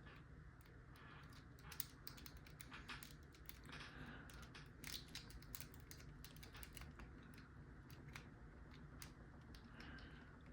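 Faint, irregular clicking and scraping of a lock pick working the pins inside a lock's keyway.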